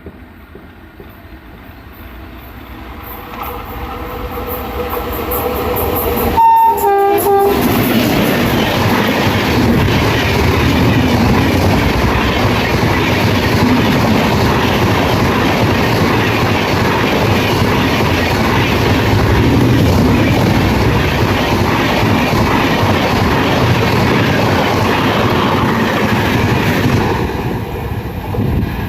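An Indian Railways express train behind a WAP-7 electric locomotive approaches and sounds its horn briefly, in two short tones, about six to seven seconds in. It then passes at speed with a loud, steady rush and rail clatter from the coaches, which eases off near the end.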